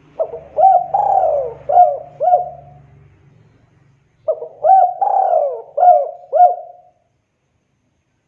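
Spotted dove (tekukur) cooing: two song phrases of about five coos each, about four seconds apart.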